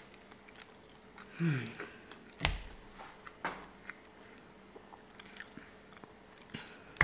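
A person chewing a mouthful of boerewors roll, sausage in a bread roll, with small wet mouth clicks. A short low hum about one and a half seconds in, and a single sharp knock about two and a half seconds in.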